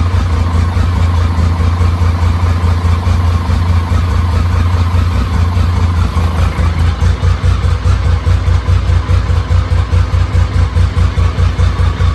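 BMW K75 inline three-cylinder engine idling steadily. From about halfway its beat becomes a more uneven, throbbing pulse.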